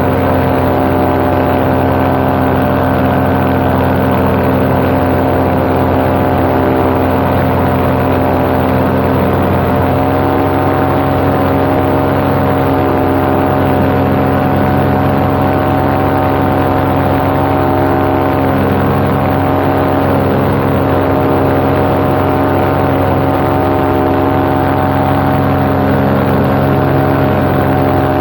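Paramotor engine and propeller running steadily at cruise power in flight, with a slight change in pitch about ten seconds in.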